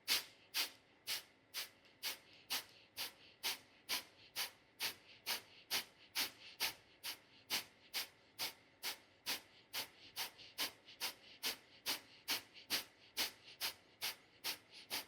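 Kapalabhati (breath of fire) breathing: a steady run of short, sharp, forceful exhales through the nose, about two a second, with quiet passive inhales between them.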